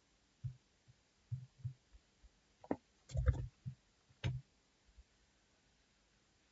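Scattered soft clicks and low knocks of mouse or stylus work at a computer, about seven spread unevenly over the few seconds.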